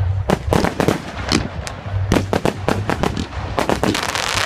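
Fireworks going off in quick succession: many sharp bangs, several a second, with crackling between them.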